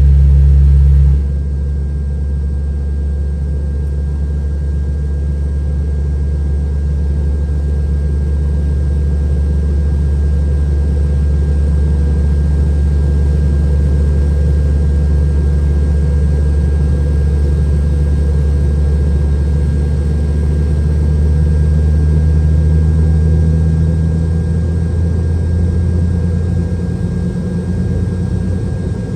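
Steady low rumble inside the cabin of a Boeing 717-200 during its engine start sequence, with a faint constant high whine above it. The rumble drops sharply about a second in, then holds steady.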